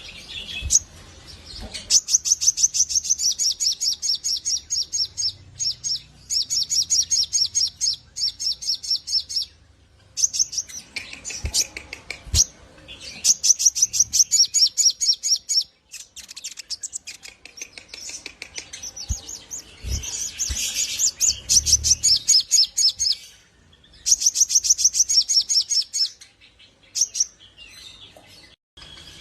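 Little spiderhunter (sogok ontong) singing its fast trilling 'ngleper' song: rapid runs of high-pitched repeated notes, each run lasting a couple of seconds, broken by short pauses.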